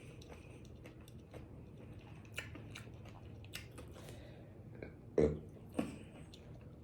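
A person chewing a pizza taco close to the microphone: faint, scattered wet clicks and small crunches, with two louder short mouth sounds about five seconds in.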